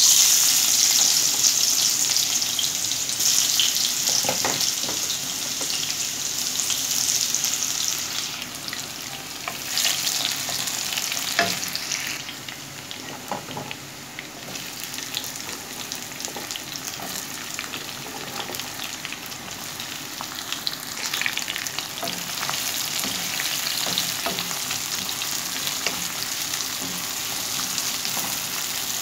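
Chopped garlic dropped into hot oil in a nonstick wok, sizzling loudly at once, then frying steadily while a wooden spoon stirs and taps in the pan. The sizzle eases after about eight seconds and swells again now and then, and sliced red onions are frying in it by the end.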